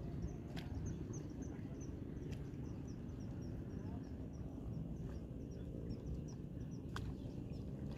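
A bird calling a rapid series of short, high chirps, about four a second, which stop near the end. Underneath is a steady low background noise, with a few sharp clicks.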